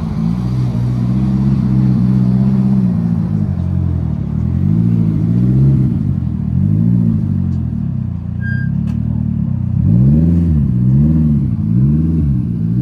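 A car engine being revved while standing: a rev held for a few seconds, then a series of throttle blips that rise and fall, three in quick succession near the end.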